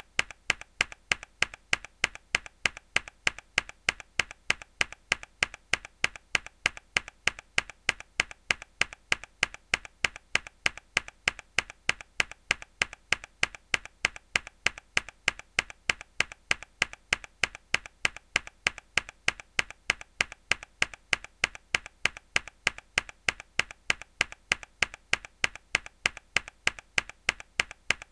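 Mechanical keyboard key pressed hard over and over in an even rhythm: a sharp click about twice a second, each followed by a softer second click.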